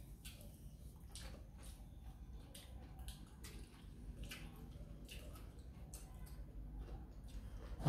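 Faint chewing and mouth smacks of people eating fried quail eggs, a string of small wet clicks, with a louder thump at the very end.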